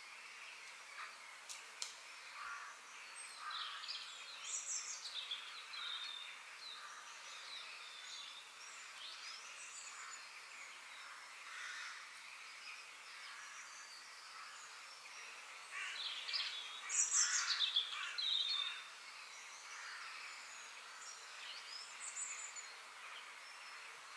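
Several songbirds chirping and singing over a faint steady hiss, the song busiest about four seconds in and again at about sixteen to eighteen seconds.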